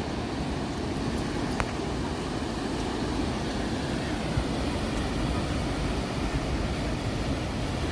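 Sea surf, a steady, unbroken wash of rumbling noise, with one faint click about a second and a half in.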